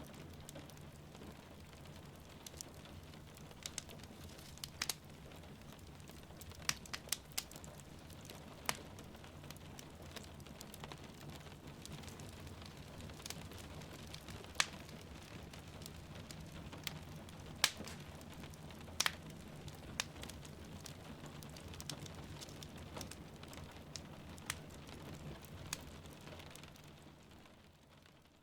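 Wood fire crackling with sharp, irregular pops over a steady hiss of rain. Everything fades out near the end.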